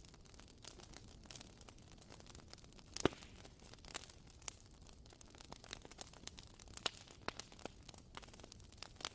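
Wooden wick of a WoodWick candle crackling softly with irregular small pops, like a tiny campfire; one pop about three seconds in stands out above the rest.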